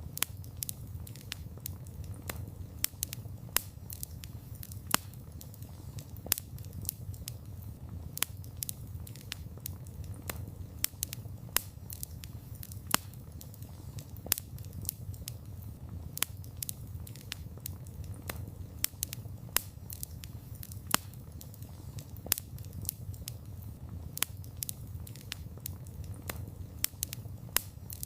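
Wood fire crackling: many sharp, irregular pops and snaps, several a second, over a low steady rumble.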